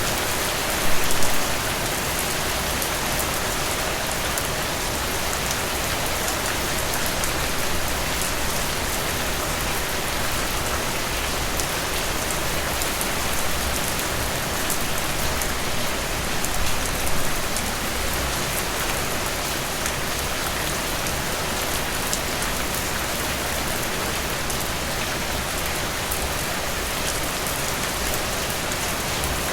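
Steady rain falling, a dense even hiss with individual drops ticking through it. It briefly swells louder about a second in and again a little past the middle.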